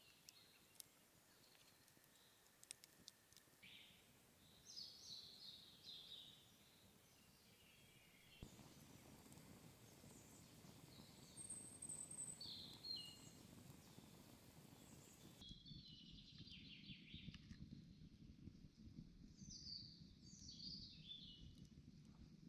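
Songbirds singing in a forest: several short, quick chirping phrases, high in pitch, spaced a few seconds apart over faint background noise. The background noise shifts abruptly twice.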